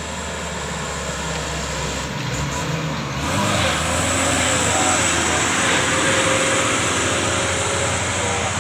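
Diesel truck engine running as a truck drives past on the road, growing clearly louder about three seconds in and staying loud.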